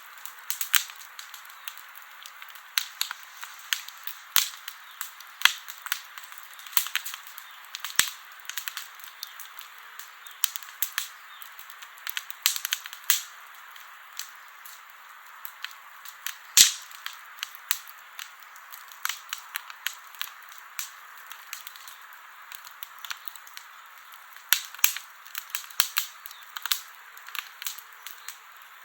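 Wood fire crackling: irregular sharp pops and snaps over a steady hiss, one pop louder than the rest a little past the middle.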